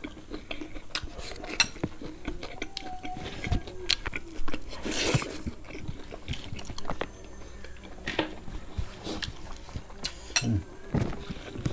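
Close-up chewing of roasted pig head meat, with irregular short wet mouth clicks and a brief breathy sound about five seconds in.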